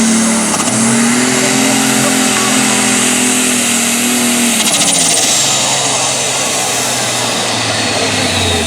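Turbocharged, alcohol-burning super stock pulling tractor engine running at full throttle under load, with a high turbo whine rising over it. About four and a half seconds in the engine note drops away, and the turbo whine falls steadily as the turbos spool down.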